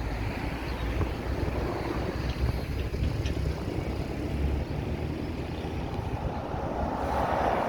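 Steady rumble of street traffic on a main road, with a vehicle passing close and swelling louder near the end.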